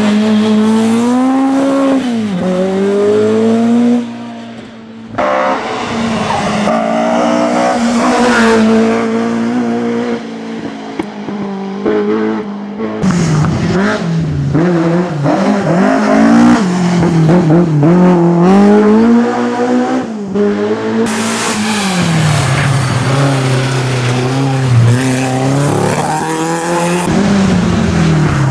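Race car engines revving hard and dropping back through gear changes as the cars pass, with some tyre squeal.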